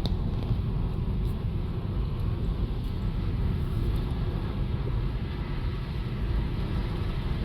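Steady low rumble of a car being driven, with engine and tyre noise on the road.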